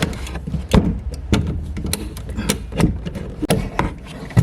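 Handling noise: a string of sharp knocks and rubs, about two a second, over a steady low rumble that stops near the end.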